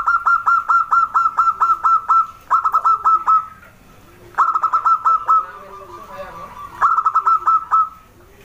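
Zebra dove (perkutut) calling: rapid runs of short, clipped notes, about five a second, in four bursts with brief pauses between them.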